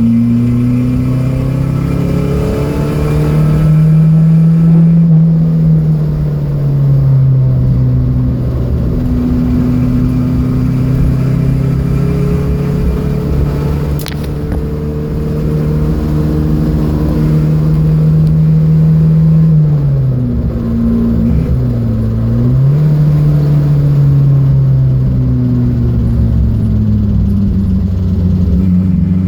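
Datsun B210's four-cylinder engine pulling hard, its note climbing and holding, then falling about two-thirds of the way through with a quick dip and recovery before climbing again. There is one sharp click about halfway through.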